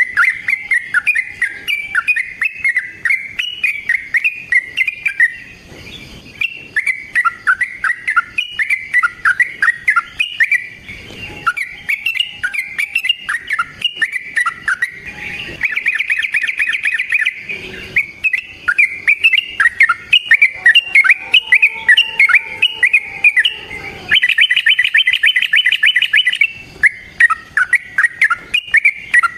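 Yellow-vented bulbul (trucukan) singing hard in a long unbroken run of quick, bubbling chirps. The song twice breaks into a rapid trill: once about halfway through and again near the end.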